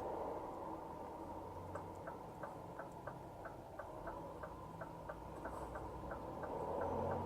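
Turn-signal indicator ticking steadily about three times a second inside the cab of a 2018 Scania R450 truck, starting nearly two seconds in, over the low hum of the running engine.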